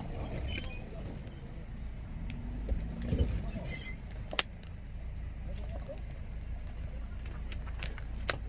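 Campfire crackling: scattered sharp, irregular pops over a steady low rumble.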